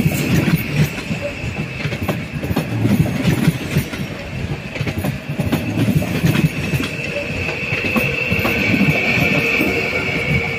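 Train moving through the station, its wheels knocking over rail joints and points with a steady high-pitched wheel squeal over a low rumble.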